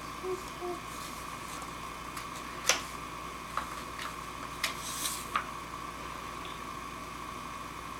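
Quiet room with a steady high hum, a brief faint child's voice at the start, and a handful of scattered soft clicks and taps, the sharpest about a third of the way in.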